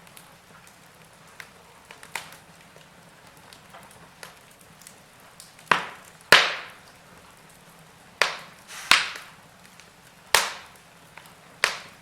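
Wood fire in a fireplace crackling, with sharp pops at irregular intervals over a faint hiss. The pops are loudest in the second half, with about six strong ones and the biggest a little past the middle.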